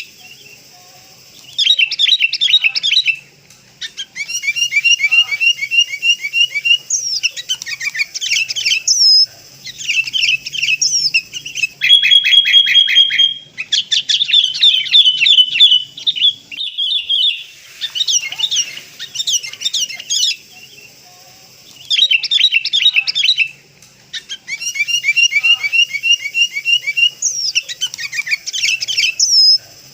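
Sooty-headed bulbul calls: bursts of rapid, sharp chirps and trills in phrases of one to three seconds with short pauses between them. The same sequence comes round again about twenty seconds later, as a looped lure recording.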